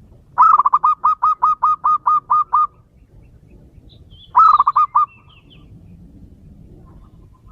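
Male zebra dove calling: a fast run of about a dozen staccato cooing notes, then, about two seconds later, a shorter run of five or so.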